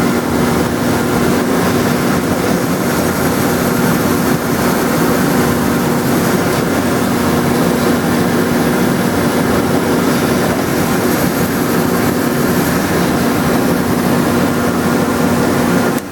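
Drill press motor running with a steady hum while countersinking holes in the wooden wing; the hum cuts off near the end.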